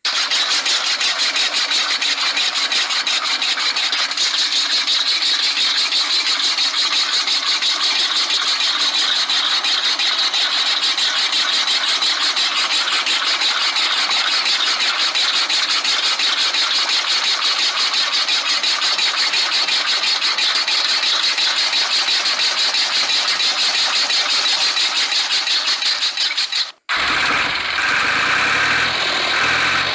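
Small hobby DC motor running steadily, a high, fast buzz, as it drives a miniature model machine. It cuts off about 27 seconds in, and a rougher, lower-pitched running sound follows.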